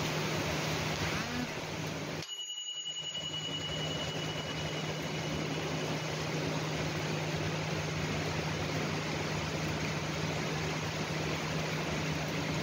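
Heavy rain pouring down, an even steady hiss, with a low steady hum beneath it. About two seconds in the sound dips briefly, then a faint high tone fades away over the next few seconds.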